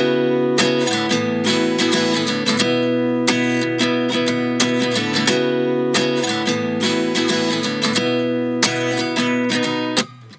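Background music: an acoustic guitar strumming chords in a steady rhythm, breaking off briefly near the end.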